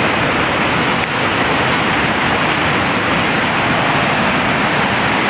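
Steady, loud rushing of storm floodwater.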